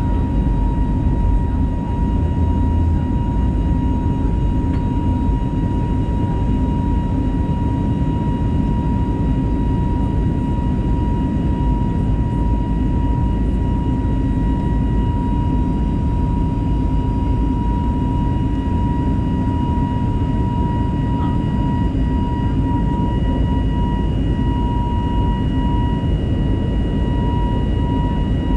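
Airbus A320neo cabin noise heard from inside the passenger cabin: the CFM LEAP-1A engines at climb power after takeoff give a steady deep rumble with a constant whine near 1 kHz and fainter higher tones.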